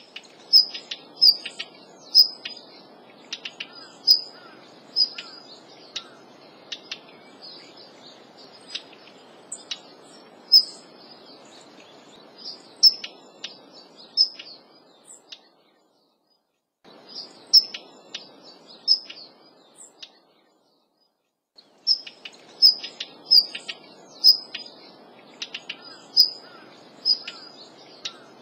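Daurian redstart calling: short high whistled notes mixed with dry clicking tack notes, repeated irregularly. The sound cuts out completely twice, briefly, partway through.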